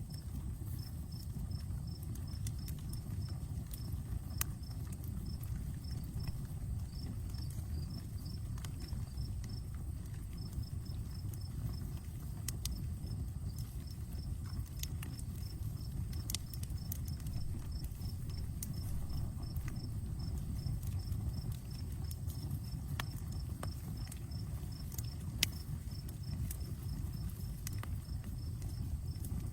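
Outdoor campfire burning, with a low steady rush of flames and scattered sharp crackles and pops, one louder pop about four seconds in and another near the end. Behind it, an insect chirps steadily at about three chirps a second.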